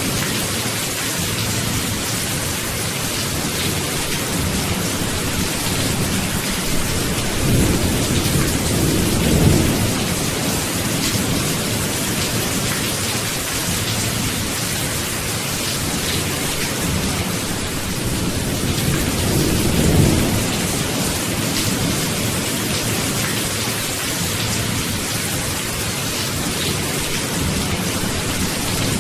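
Steady heavy rain with low rumbles of thunder swelling twice, about nine and twenty seconds in.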